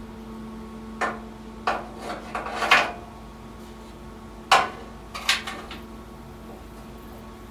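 Several sharp metallic knocks and clinks from sheet-metal panel work, bunched in the first half and dying out by about two-thirds of the way.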